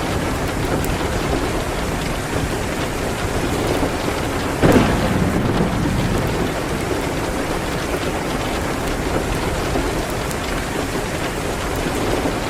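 Steady rain pattering against a window, with faint crackling from a fireplace. A single brief, louder burst of sound comes about four and a half seconds in and fades within a second.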